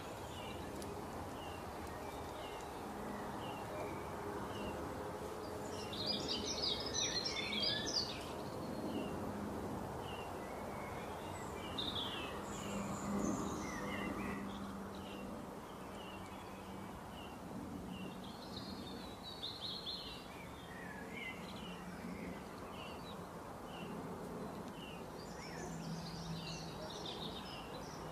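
Birds chirping, with short high chirps repeating about once a second and several bursts of twittering, over a steady background hiss.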